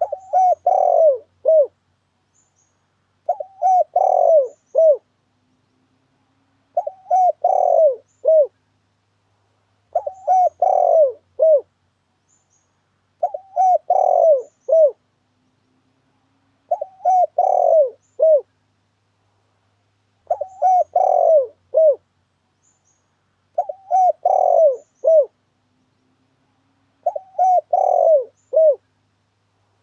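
Recorded lure call of a spotted dove: a cooing phrase of several notes repeated nine times, about every three and a half seconds, with silence between phrases.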